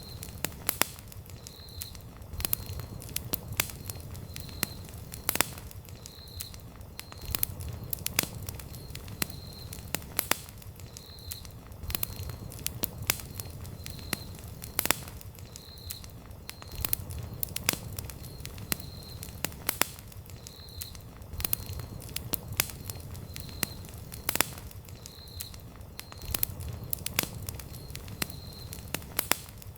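Wood campfire burning, with irregular sharp pops and crackles over a low rumble of flame. A faint short high chirp repeats about once a second throughout.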